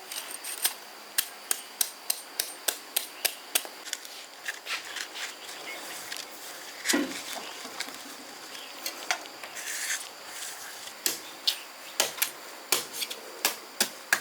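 A run of sharp knocks, about two to three a second, for the first few seconds, then softer scraping with scattered knocks, then another run of knocks from about eleven seconds in.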